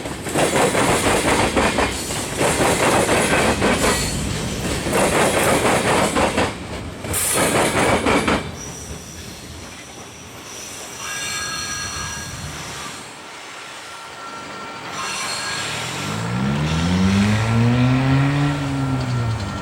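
Freight train cars rolling past: rhythmic wheel clatter with high wheel squeal. The clatter drops off about eight seconds in, leaving thinner, steady squealing tones. Near the end a low hum swells and rises, then falls in pitch.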